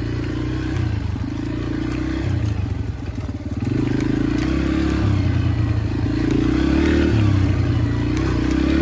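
Yamaha dirt bike engine being ridden under changing throttle, its note rising and falling repeatedly, with some clatter from the bike over rough ground.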